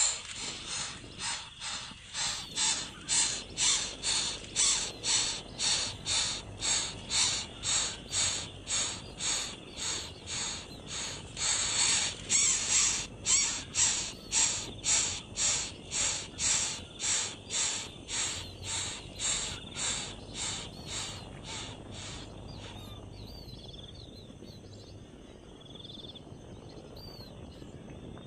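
A bird giving a long run of harsh, evenly repeated calls, about two a second, that stops about three-quarters of the way through. Fainter thin chirps follow.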